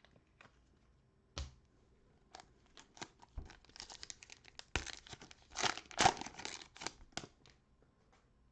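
Plastic cello pack wrapper of NBA Prizm trading cards being torn open and crinkled, in a run of quick crackling tears and rustles, loudest about two-thirds of the way through.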